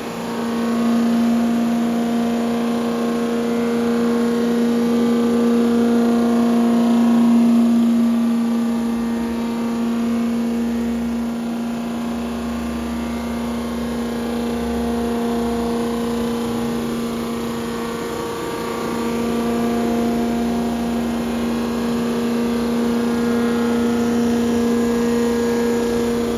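Engine-machining equipment running with a steady hum, with a low rumble joining in partway through.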